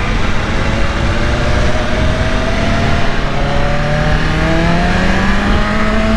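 BMW S1000RR M's inline-four engine pulling under acceleration, its pitch climbing slowly and steadily through one gear, over a rough rumble of wind noise.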